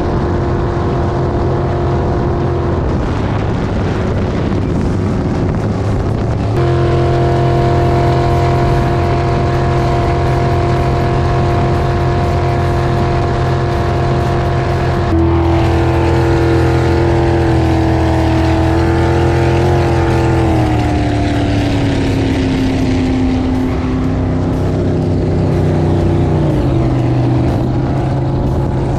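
Jet boat's V8 engine running hard at a steady speed over water and wind noise. Its pitch steps up once or twice, then eases down about two-thirds of the way through as the throttle comes back.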